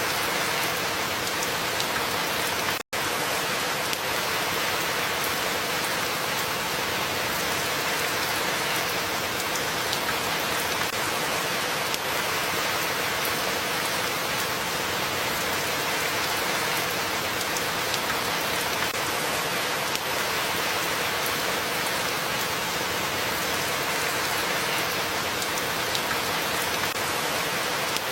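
Steady rain falling, an even dense hiss without a break in intensity, cut out for a split second about three seconds in.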